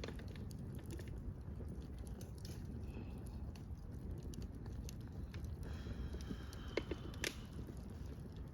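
Wood campfire crackling: irregular sharp snaps and pops over a low steady rumble, with a couple of louder pops about seven seconds in.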